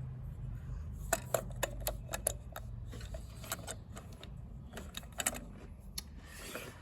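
Light metal-on-metal taps and clicks, about a dozen in irregular succession, as a tool taps at a Zetor 440 injection pump piston stuck in the high position to free it. A short rustle follows near the end.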